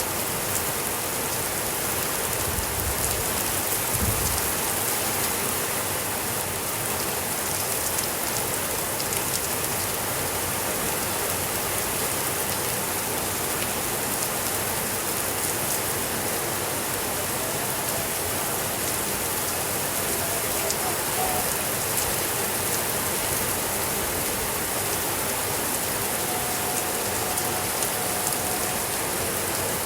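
Steady rainfall, a dense even hiss, with a brief low rumble about three to four seconds in.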